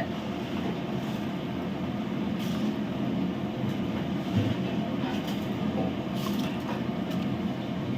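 Steady low rumble of a gas stove burner on high flame under a large cooking pot, with a few faint knocks.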